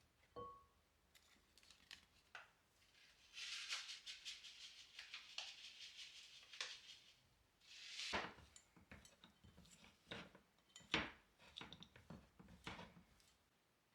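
Quiet kitchen handling: light taps and clinks of dishes and utensils, with a stretch of scraping or rustling from about three to seven seconds in.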